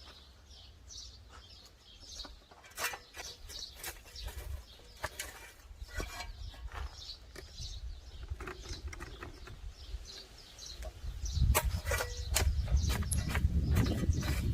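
Small birds chirping outdoors, mixed with scattered clicks and knocks. About eleven seconds in, a louder low rumble and handling knocks join in and become the loudest sound.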